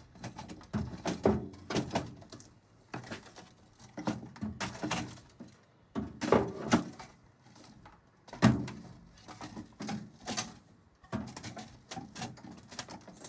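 Irregular knocks, clanks and scrapes of a metal pipe prodding and dragging a burnt toaster inside a microwave oven.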